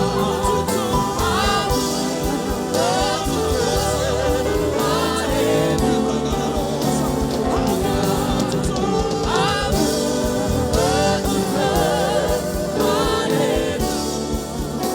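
Live gospel music: singing with gliding, wavering vocal runs over steady band accompaniment.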